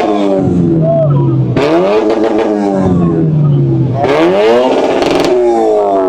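A modified car's engine being revved hard in the standstill, its pitch climbing and falling about three times: free-revving blips through a loud exhaust.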